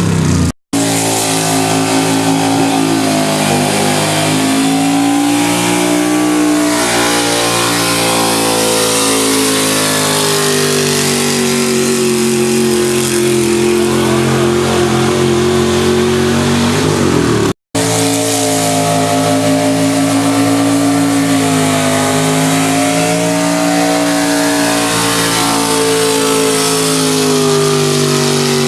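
4x4 truck engine running hard at high revs, its pitch slowly sagging and rising again. It drops out to silence briefly twice, about half a second in and again after about 17 seconds, where the recording cuts.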